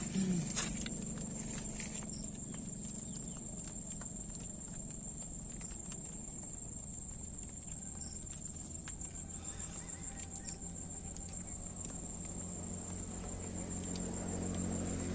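Insects, crickets or similar, calling in one steady high-pitched continuous tone, with a few faint scattered clicks and taps.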